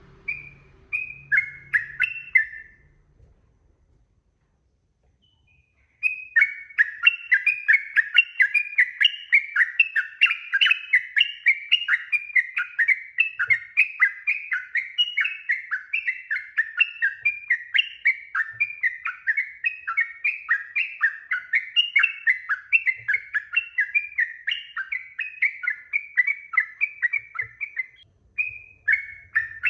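Yellow-vented bulbul (trucuk) singing: a short burst of quick bubbly notes, a pause of a few seconds, then a long, fast, unbroken run of chirping notes.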